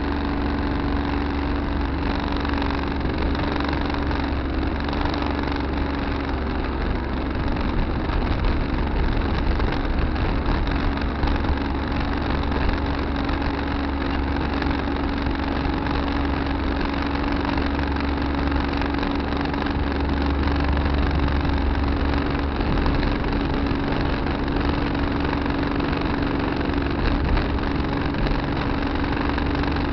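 Tractor engine running steadily, a constant drone that holds one even pitch.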